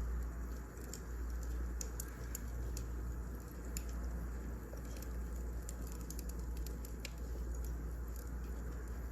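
Wood fire crackling, with irregular small snaps and pops over a steady low rumble.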